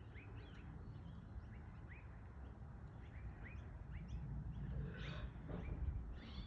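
Small birds chirping with short, quick rising calls, over a low rumble in the sky that grows louder near the end.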